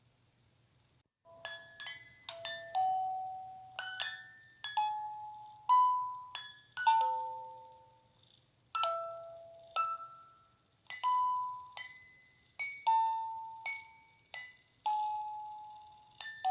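Slow lullaby melody of bell-like struck notes, each ringing out and fading, starting about a second in, over a faint steady low hum.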